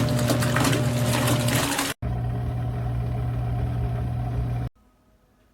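Motor of a portable twin-tub washing machine running with a steady hum while water churns. About two seconds in the sound breaks off abruptly and the hum resumes with less water noise, then it cuts to near silence near the end.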